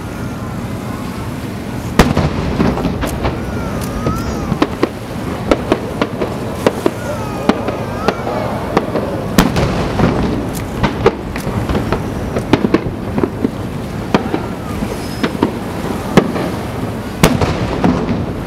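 Aerial firework shells bursting: a string of sharp, irregularly spaced bangs over a continuous rumble. The loudest bang comes about two seconds in, with another strong one near the end.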